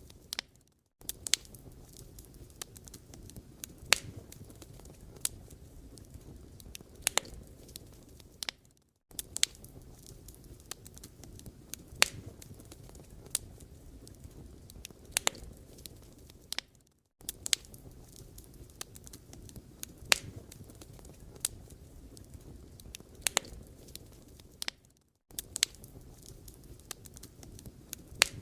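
Wood fire burning, with irregular sharp crackles and pops of the firewood over a low steady rush. The sound cuts out briefly about every eight seconds.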